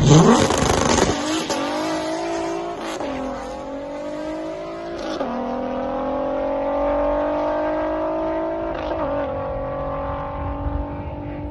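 Volkswagen Rabbit drag car's engine at full throttle down the strip, its pitch climbing through each gear and dropping sharply at each of several upshifts. The driver thinks he missed third gear on this pass.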